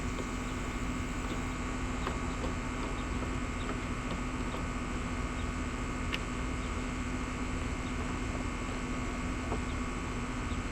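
Steady hum and hiss of room noise with a constant low tone, and a few faint, widely spaced clicks of small plastic parts being handled as the boat's fuel tank and fittings are taken out.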